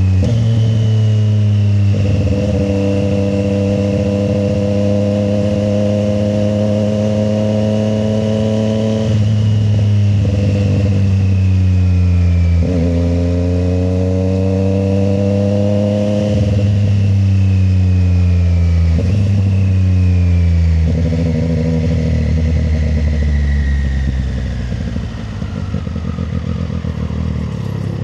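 Triumph Street Triple 765 RS inline three-cylinder engine under way on the road. Its pitch climbs gently and then drops back several times as the throttle and gears change. Near the end the engine note falls away as the bike slows.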